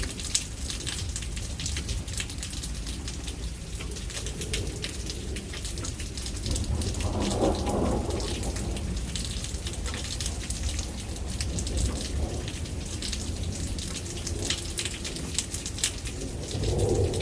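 Steady rain with drops pattering, under a low thunder rumble that swells about halfway through and again near the end.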